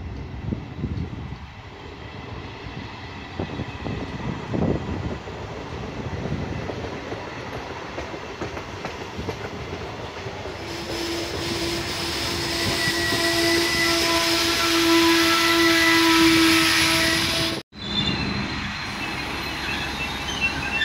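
Italian regional passenger trains at a station. First a train rumbles along the platform. About ten seconds in, a locomotive-hauled train arrives with a loud, steady, several-toned squeal lasting about seven seconds, the loudest part. After a sudden cut near the end, a Trenitalia D.445 diesel locomotive is heard running.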